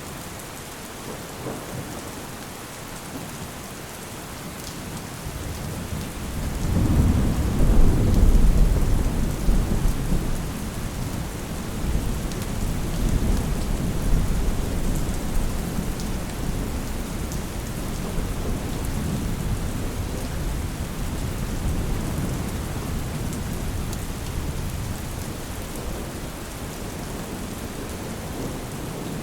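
Steady rain with a long roll of thunder that builds about six seconds in, peaks soon after and rumbles on, slowly fading, through most of the rest.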